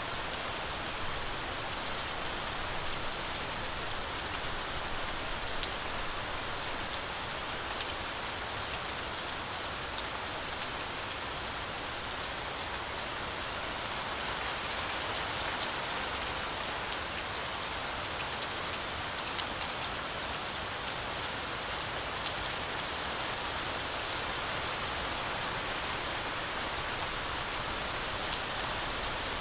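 Heavy rain falling steadily, an even hiss of rainfall with scattered sharper drop ticks throughout.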